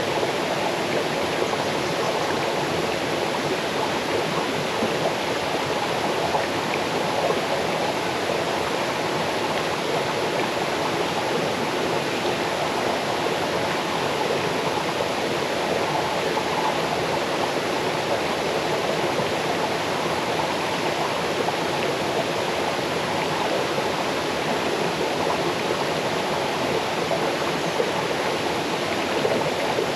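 Small waterfall cascading over rocks into a stream: a steady, even rush of falling and running water with a babbling edge.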